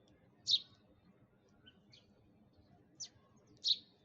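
Sparrow chirping: single short, high chirps, three loud ones and a fainter one spaced irregularly, with two coming close together near the end.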